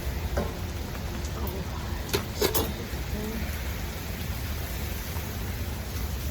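Tikka masala sauce simmering in the pan on a low flame, a steady sizzling hiss. Two sharp clicks come about two seconds in.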